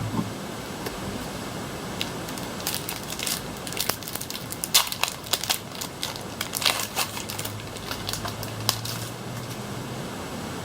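Foil wrapper of a Pokémon trading card booster pack crinkling in the hands as it is torn open, in a run of sharp crackles.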